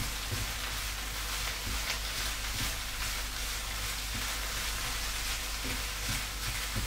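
Diced firm tofu with spring onion, garlic and ginger sizzling steadily in hot oil in a frying pan as it is stirred with a spatula, with light knocks of the spatula against the pan now and then. The tofu is being fried to crisp up.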